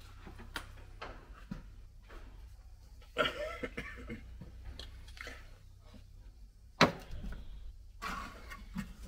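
Handling noise from a camera being fitted to a tripod: scattered clicks, rustles and knocks, with one sharp knock about seven seconds in, over a steady low hum.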